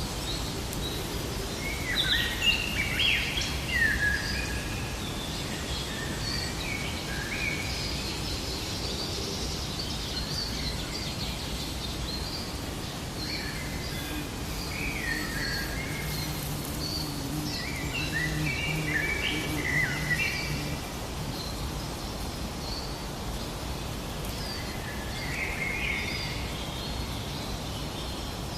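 Songbirds chirping and calling over a steady outdoor hiss, with louder clusters of quick chirps about two seconds in, around the middle, and near the end.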